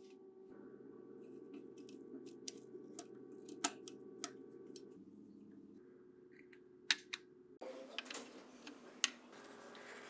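Scattered sharp clicks and taps of small hard parts and tools being handled at close range, over a faint steady hum; the background noise changes abruptly about two thirds of the way through.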